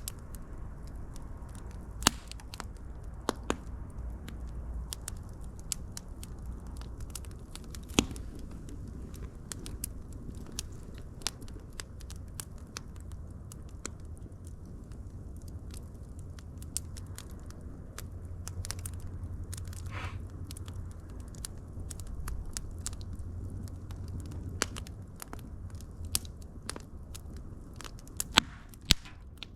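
Wood fire burning with a steady low rumble and irregular sharp crackles and pops; the loudest pops come about two seconds in, about eight seconds in and twice near the end.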